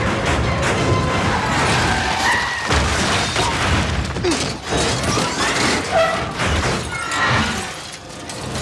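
Action-film car-chase soundtrack: orchestral-style score under repeated crashes, smashing metal and shattering glass.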